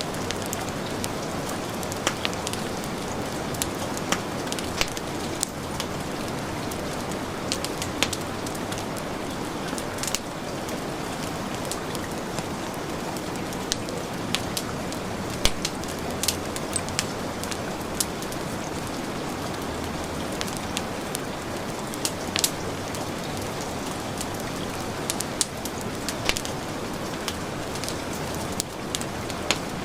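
Heavy rain falling in a steady wash, with a wood fire crackling and popping in sharp, irregular snaps over it.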